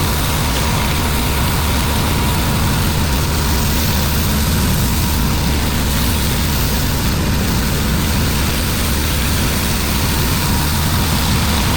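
Engine of a pressure-washing rig running steadily at constant speed, with a thin steady whine over it.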